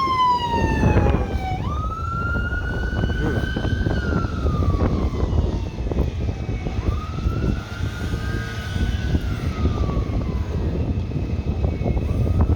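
An emergency vehicle's siren wailing in slow sweeps: it falls, rises again about 2 seconds in, holds, and falls and rises once more, over a steady low rumble.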